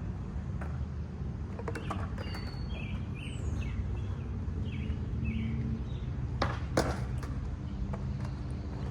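Outdoor ambience: a steady low rumble, with birds chirping several times in the middle. Two sharp clacks come close together about six and a half seconds in.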